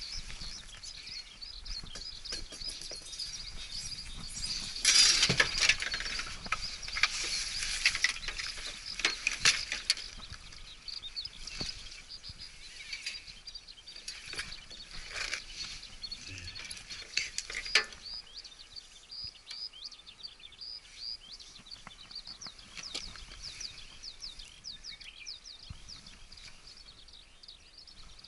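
Birds chirping in quick repeated high notes, with clicks and rustling of handling close by, loudest and busiest about five to ten seconds in.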